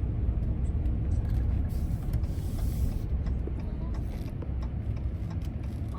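Inside the cab of a 2024 Ram 1500 pickup driving in 4-wheel drive: steady low road and drivetrain rumble, with a brief hiss about two seconds in.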